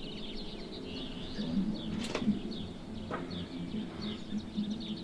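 Small birds chirping over and over, with a low warbling near the bottom of the sound and two brief knocks about two and three seconds in.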